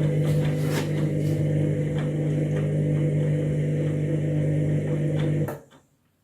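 Overloaded washing machine running: a steady motor hum with light knocks and ticks, which cuts off abruptly about five and a half seconds in.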